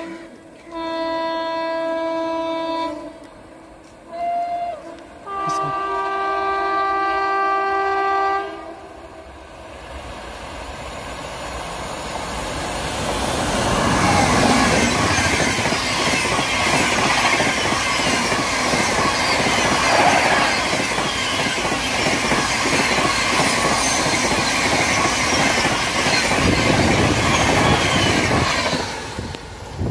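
An Indian Railways WAP-7 electric locomotive sounds its horn three times (long, short, then long), then its train of coaches rushes past at high speed with a steady loud clatter of wheels on the rail joints. The noise builds from about ten seconds in and falls away near the end as the last coach goes by.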